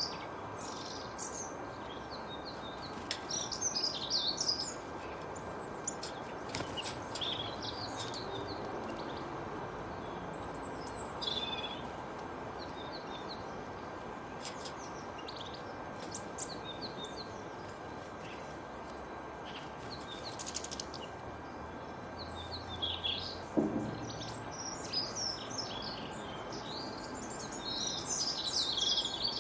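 Several small birds chirping and singing in short, busy phrases over a steady outdoor background hiss, with a brief lower sound about three-quarters of the way through.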